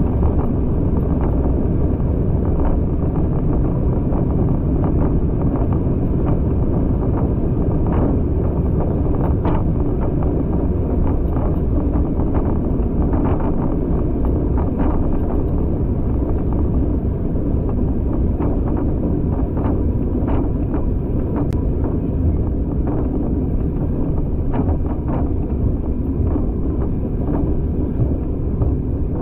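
Passenger carriage of a moving train: a steady rumble of wheels on the rails with wind rushing past, and scattered light clicks and knocks throughout.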